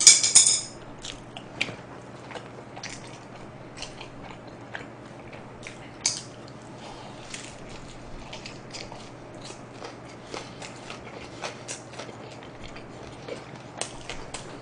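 A person biting and chewing pizza close to the microphone: scattered small crunches and wet mouth clicks, irregular, over a low steady hum. A sharp ringing clink comes right at the start.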